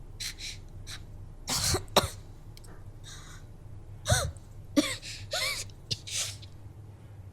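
A woman coughing in fits: two loud coughs about one and a half seconds in, then a cluster of coughs with short voiced catches in the second half. It is the acted coughing of a character bringing up flower petals from hanahaki disease.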